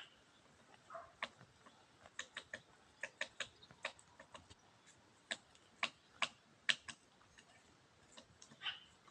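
Woodpecker pecking at a tree: sharp, irregular taps, single or two or three in quick succession, not a steady drumming roll.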